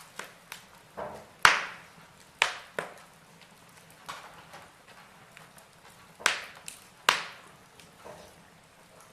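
Logs burning in a fireplace, crackling: irregular sharp pops and snaps over a faint hiss, with a few much louder snaps among the small ones.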